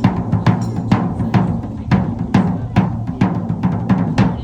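A large drum beaten in a steady beat, about two strikes a second, each stroke a deep booming hit that rings on.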